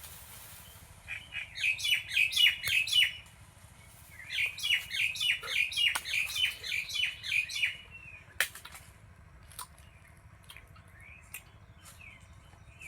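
A bird calling in two quick runs of repeated high chirps, about four a second, the second run longer than the first.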